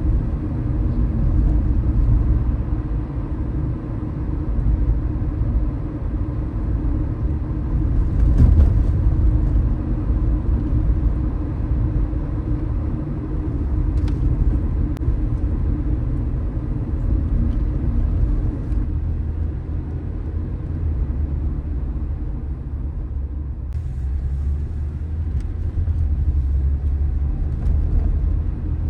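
Car driving on city streets: a steady low rumble of road and engine noise, briefly louder about eight seconds in.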